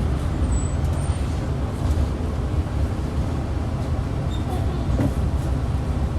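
Hyundai New Super Aero City bus engine running, heard inside the cabin as a steady low rumble.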